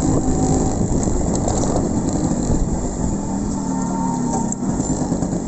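Yamaha RX100's two-stroke single-cylinder engine running at low road speed, its pitch wavering slightly up and down with the throttle.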